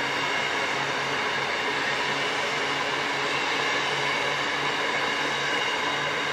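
Covered hopper wagons of a long freight train rolling past, a steady, even noise of steel wheels on rail.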